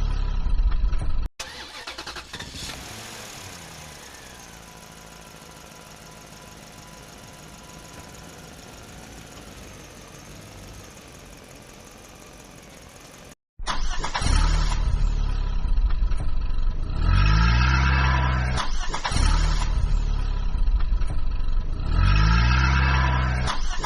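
Motor vehicle engine sound, cut off abruptly about a second in. A quieter steady engine drone follows, its pitch falling and then holding. Loud engine noise returns about halfway through, revving up twice in rising surges.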